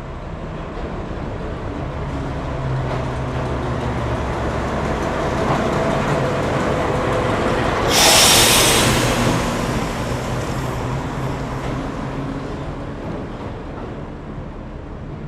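A train rumbling past, growing steadily louder for about eight seconds, peaking with a short burst of hiss, then fading away.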